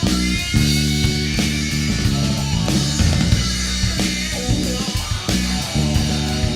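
Live rock band playing an instrumental passage: electric guitar over bass and a drum kit, with no singing.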